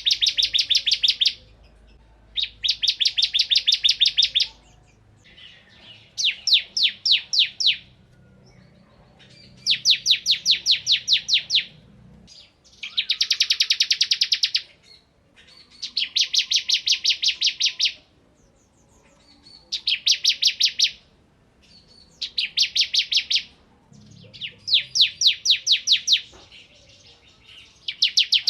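Bar-winged prinia (ciblek kristal) singing hard: about ten bursts of rapid, sharp, evenly repeated high notes, each burst one to two seconds long, coming every two to three seconds.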